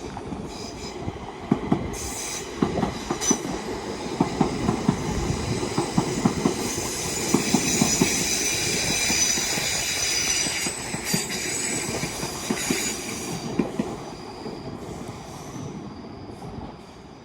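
Two coupled Class 350 electric multiple units passing at speed: a fast series of wheel clicks over rail joints under a high-pitched whine. The sound is loudest around the middle and fades away near the end.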